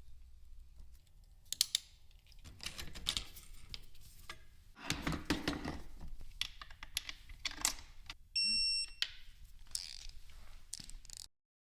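Hand work on a motorcycle shock's bearing, heard as irregular clicks, taps and scrapes of tools and metal parts. A short electronic beep of about half a second comes about eight seconds in, and the sound stops abruptly near the end.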